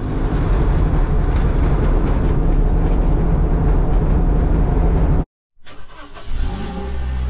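Cabin sound of a 1972 Mini Van's SU-carburetted 1.0-litre A-series four-cylinder engine running steadily at road speed, with road noise, cut off abruptly about five seconds in. After a short silence comes a quieter sound whose pitch rises and falls.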